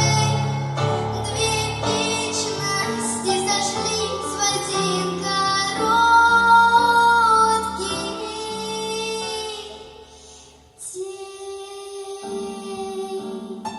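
A girl singing long held notes over an instrumental backing track. The music fades out about ten seconds in, and steady piano-like notes begin about a second later.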